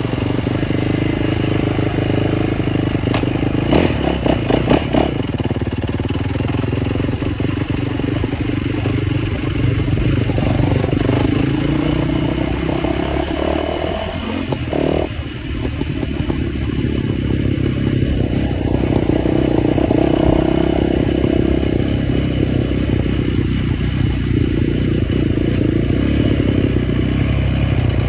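Small motorbike engine running and revving, its pitch rising and falling as the throttle is opened and let off. A quick run of sharp clicks and rattles comes about four seconds in.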